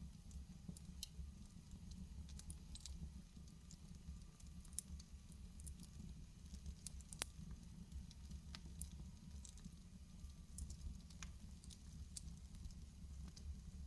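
Wood fire crackling in a fireplace: irregular small pops and snaps over a low steady rumble, with one sharper pop about seven seconds in.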